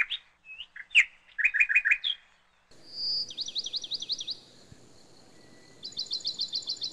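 Small birds chirping: scattered short chirps, then a fast trill of repeated high notes about three seconds in and again near the end.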